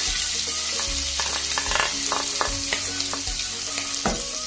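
Boiled chicken pieces sizzling in hot cooking oil in a non-stick kadhai, a steady hiss of frying, with the taps and scrapes of a spatula stirring them and one louder knock near the end.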